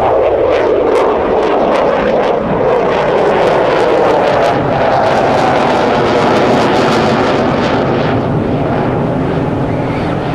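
Military aircraft flying by: a loud, steady engine noise with a rough crackle through most of it, the crackle easing near the end.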